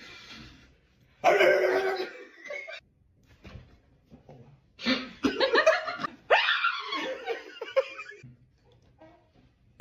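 People laughing in several loud bursts, with a quiet gap between them.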